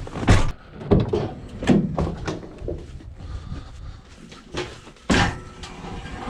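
A series of knocks and bangs: four at even spacing in the first two and a half seconds, quieter ones after that, and one more loud bang about five seconds in.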